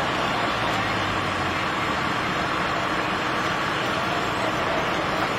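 Steady, even din of tractor engines running in a crowded street, with a low engine hum in the first second or so.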